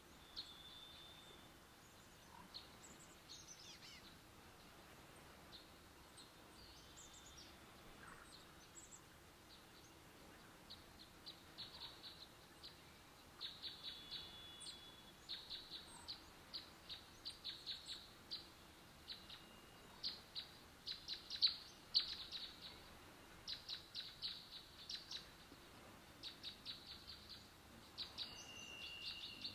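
Small forest birds calling: rapid runs of short high chips that grow busier about a third of the way in, with a few brief thin whistled notes, over quiet woodland ambience.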